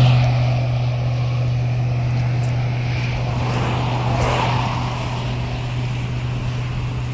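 Highway traffic passing close by, with one vehicle swishing past just at the start and another about four seconds in, over a steady low hum.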